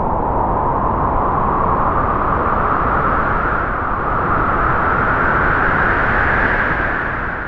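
Strong wind howling through trees, one long gust whose whistling band rises a little in pitch and then eases off near the end.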